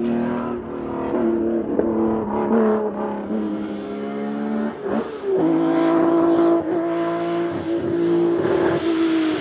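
Nissan 370Z's 3.7-litre V6 engine and exhaust running with the car on the move. The note holds fairly level, drops briefly about five seconds in, then settles into a steady, slightly louder note.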